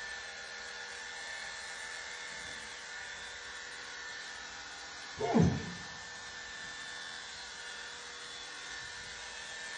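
Steady whir of a small electric motor held against a horse's belly. About five seconds in, a single short sound glides down in pitch.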